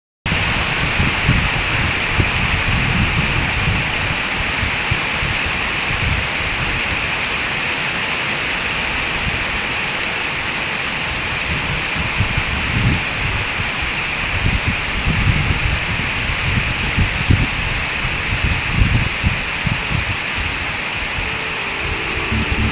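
Steady rain falling, a dense even hiss, with uneven low rumbles swelling and fading underneath.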